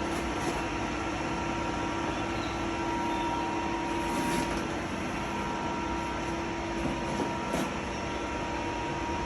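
Metal lathe running steadily while machining a steel shaft, a constant mechanical hum with a few steady tones and a couple of faint ticks about seven seconds in.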